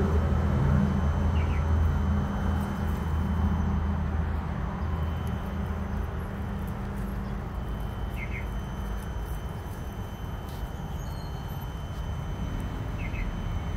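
Short chirps from a small bird, three times, over a steady low rumble that eases off after the first few seconds.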